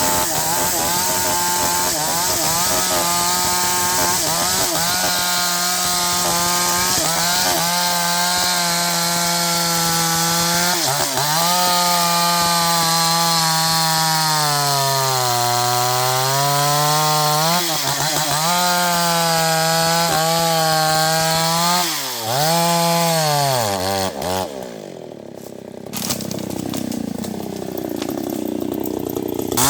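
NewWest 628 two-stroke chainsaw running at full throttle while cutting sengon wood. Its pitch sags under load around the middle and dips briefly several times. Near the end the throttle is let off and it drops to a lower, quieter run.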